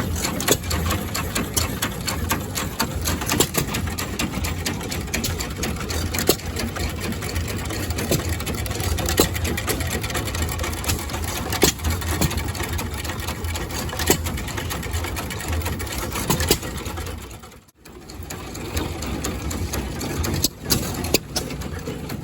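Antique engine running with a steady, rapid mechanical clatter of ticks and knocks over a low hum, dropping away briefly about three-quarters through before picking up again.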